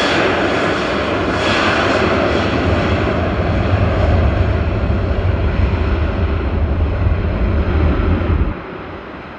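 An airliner's engines running loud and steady as it passes close, the sound slowly dulling as it moves away. A heavy low rumble of wind on the microphone sits under it and cuts off suddenly near the end.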